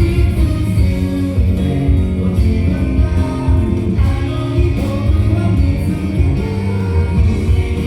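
Loud pop song with singing over a heavy bass line, played through a live stage sound system.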